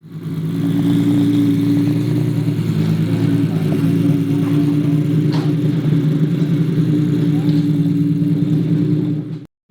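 A supercar engine running steadily at a constant low speed, an even pitched drone with no revving. It breaks off suddenly just before the end.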